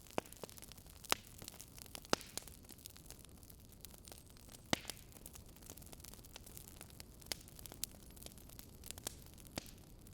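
Fire burning in a fireplace, crackling with irregular sharp pops over a steady low hiss. The three loudest pops come about one, two and nearly five seconds in.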